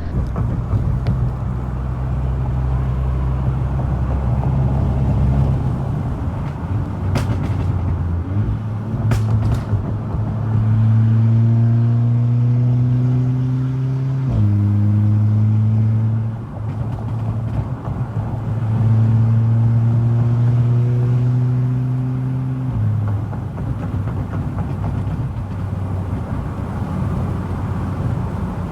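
Car engine heard from inside the cabin over steady road rumble, pulling under light acceleration with its note rising slowly. It drops suddenly at a gear change about halfway through, then climbs again.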